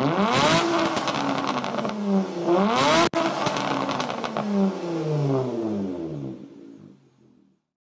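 Car engine revving hard, rising in pitch twice with a sharp break about three seconds in, then winding down in several falling sweeps and fading out.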